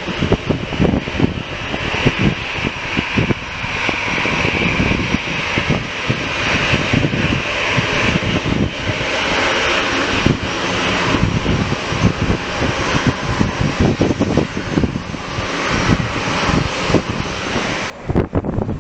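Airliner's engines running loud and steady, a broad rushing noise, with wind buffeting the microphone. The engine noise drops away suddenly near the end.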